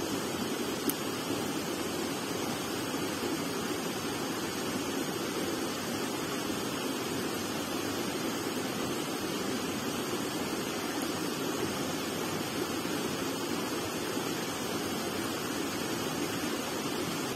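Steady rush of running water, like a stream flowing over stones, unbroken throughout.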